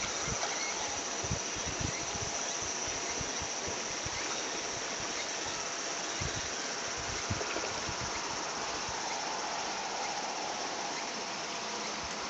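Steady flowing river water with a continuous high-pitched insect chorus over it, and occasional soft low bumps.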